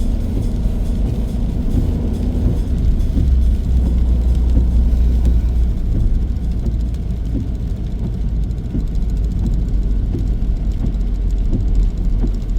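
Car running along the road, heard from inside the cabin: a steady low engine and road rumble, swelling a little a few seconds in.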